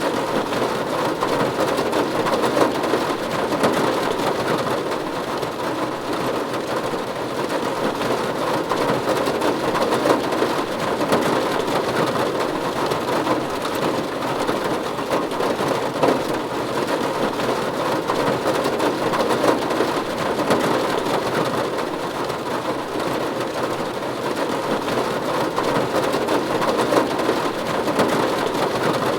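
Steady rain falling on a roof: an even hiss of many small drop hits that holds level throughout.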